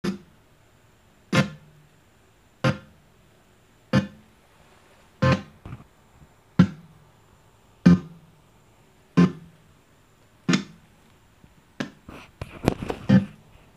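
Bluetooth party speaker playing music that comes through only in short bursts, about one every 1.3 seconds, cutting out in between, with several quicker bursts near the end. This is the sound-cutting fault, which is blamed on the 6-pin IC beside the battery wires.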